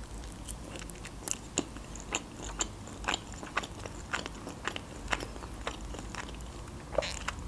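A person chewing a bite of stewed chicken: a steady run of irregular, soft mouth clicks and crackles, a few a second.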